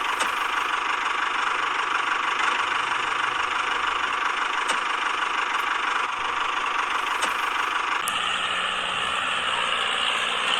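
A small motor running steadily, a continuous mid-pitched whirr. About eight seconds in its sound shifts and a low steady hum joins it, then it stops abruptly.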